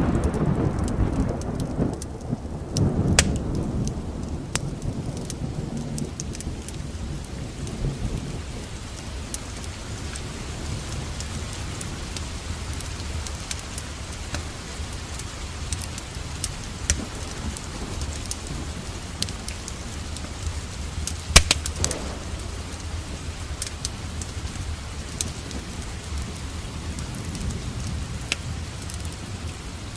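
Thunder rumbling over the first few seconds, then steady heavy rain. Through it come scattered sharp pops from a crackling wood fire, with one loud crack about two-thirds of the way through.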